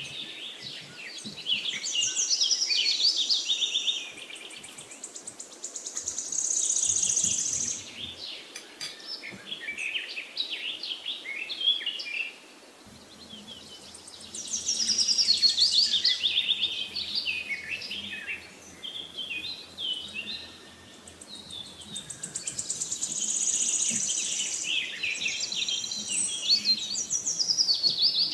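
Songbirds chirping and trilling in quick high phrases that come and go every few seconds, with short lulls between.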